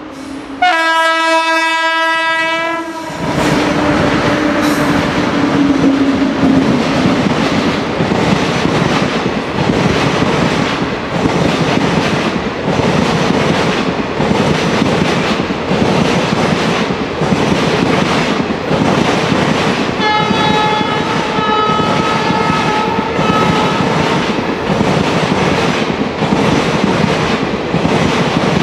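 WAP-7 electric locomotive sounding its horn for about two seconds as it comes up, then passing at speed with a whine that drops in pitch. The express's coaches follow with a loud, steady, rhythmic clatter of wheels over rail joints. About two-thirds of the way through, a high wavering tone comes and goes for a few seconds.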